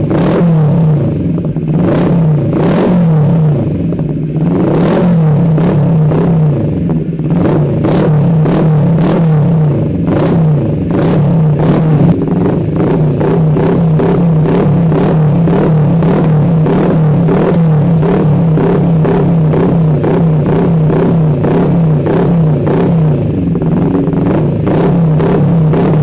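CFMOTO 400NK's parallel-twin engine running loud and mostly steady through an SC-Project open-pipe aftermarket exhaust, with sharp pops about twice a second.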